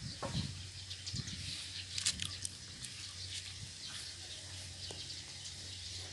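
Faint outdoor background with a few short bird chirps about two seconds in, over a low steady hum.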